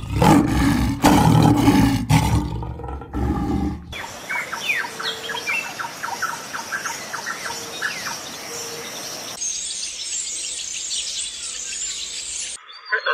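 Birds calling in a string of edited clips: a loud, low-pitched animal call for the first few seconds, then rapid runs of short chirps from about four seconds in, then thinner, higher calls, cut off abruptly near the end.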